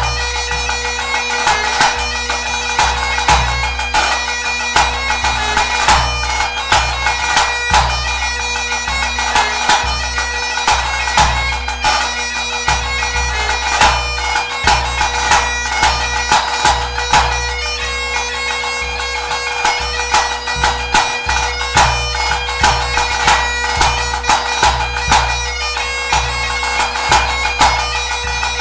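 Highland bagpipe playing a quick tune over its steady drones, with a bass drum beating a regular low pulse underneath.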